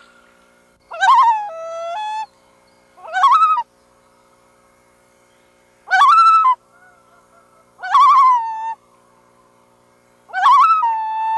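Loons calling: five separate calls, each a wavering cry near 1 kHz, some running on into a held note, with pauses of a second or two between them.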